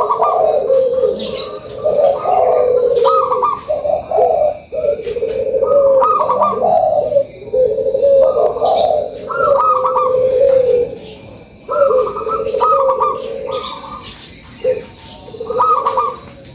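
Zebra dove (perkutut) singing: a run of repeated rolling, cooing phrases, one every second or so, each ending on higher clipped notes. A faint, high, evenly spaced chirping goes on behind it.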